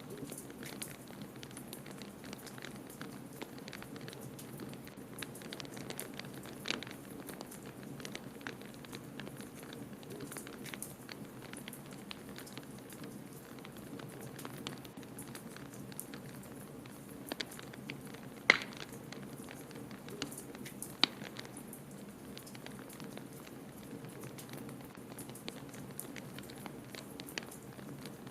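Wood fire crackling in a fireplace, with scattered small pops and two louder cracks past the middle, over a steady low rush of blizzard wind.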